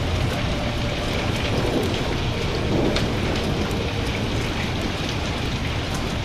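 Steady rain with a low rumble of thunder underneath, and a few faint sharp pops of a crackling wood fire.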